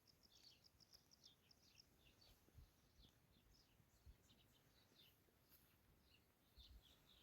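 Faint birdsong: many short, quick chirps from small birds, with a few soft low thumps.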